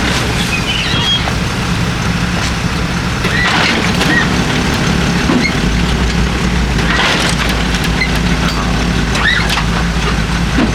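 Vehicle engine idling steadily, with a deeper low rumble joining about five and a half seconds in. A few short high chirps sound over it.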